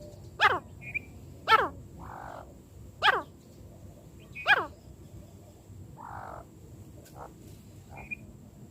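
Francolin (teetar) calling: four loud, downward-sweeping notes about a second and a half apart in the first five seconds, then only faint short chirps.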